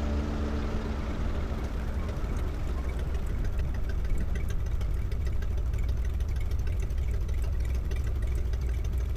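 Stinson light aircraft's piston engine running steadily, a low rumble with faint ticking, as the background music fades out in the first second or two.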